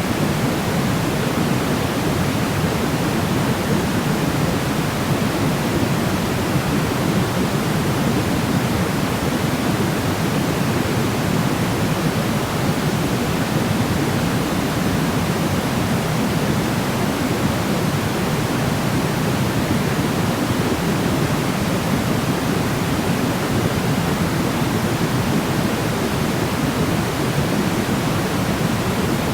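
Steady sleep-aid noise: an even, unchanging rush with more weight in the low end than the high, closer to pink noise than a bright white hiss.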